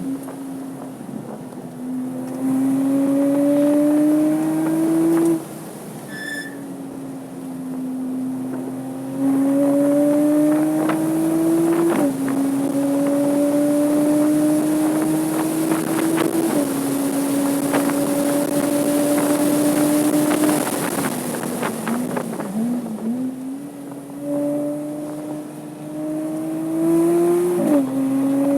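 Porsche 987.2 Cayman S flat-six engine under hard acceleration on track, its note climbing through the revs and dropping sharply at upshifts about twelve and sixteen seconds in and again near the end. It lifts off twice for braking, about five and twenty-one seconds in, with a wavering note during the second lift.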